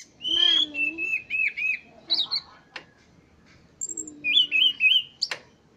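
Punglor Rote ground thrush singing: two phrases of quick, looping whistled notes, split by a pause of about a second, with a sharp click near the end.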